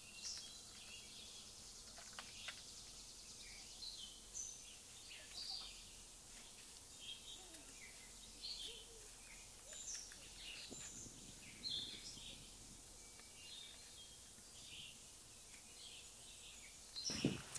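Outdoor ambience: scattered short bird chirps over a steady high hiss, with a couple of brief knocks near the end.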